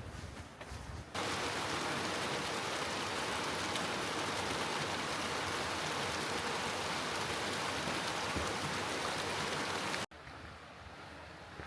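Footsteps on the trail, then about a second in, a sudden switch to a steady rush of flowing water, which cuts off abruptly near the end, leaving quieter outdoor ambience.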